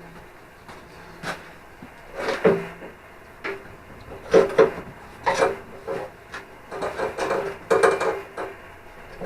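Hacksaw cutting through the steel hinge of a tractor door: separate rasping strokes, a few spaced-out ones at first, then quicker strokes close together near the end.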